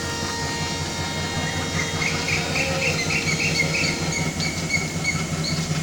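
Train at a railway station: a steady low rumble, with a quick run of short high squeaks, about four a second, through the middle.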